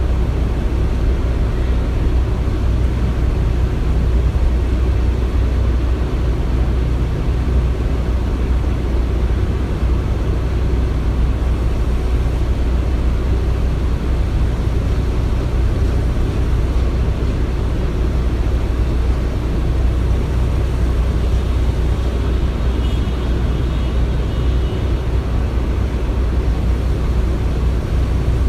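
Steady, unbroken low rumble of construction machinery, like a heavy engine running continuously, with no distinct knocks or impacts.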